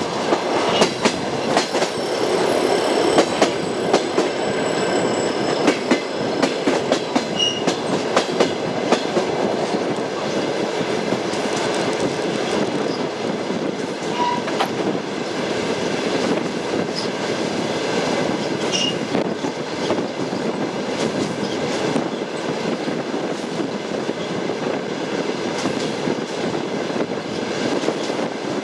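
Train wheels clattering over the rail joints over the steady rumble of a moving railway carriage; the sharp clicks come thickest in the first ten seconds, then the ride runs smoother.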